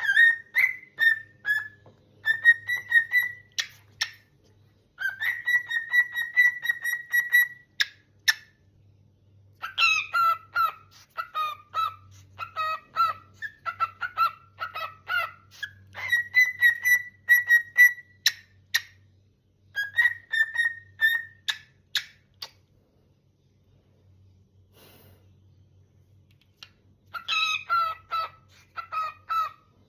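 Cockatiel whistling and chirping in bouts of short repeated calls, with a quiet spell of about five seconds late on: excited, happy calling.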